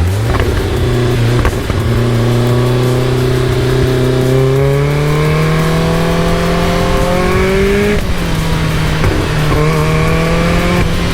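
Caterham Super Seven engine pulling under acceleration: the revs climb slowly from low, drop at a gear change about eight seconds in, then climb again until another change near the end.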